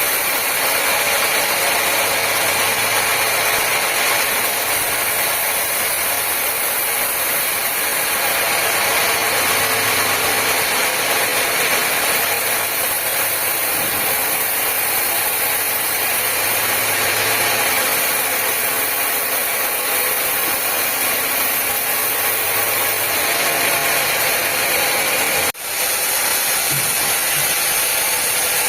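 Sawmill machinery running steadily, a dense even mechanical noise that briefly cuts out for a split second near the end and then resumes.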